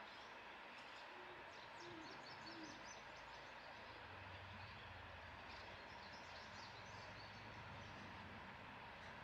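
Faint outdoor background hiss with faint high chirping. A bird gives three short low hoots between about one and three seconds in, and a low hum comes in about halfway through.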